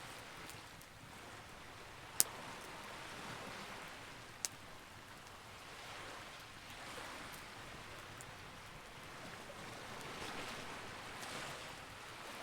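Campfire burning with a steady crackle and hiss, and two sharp pops from the burning wood, the louder about two seconds in and a smaller one a couple of seconds later.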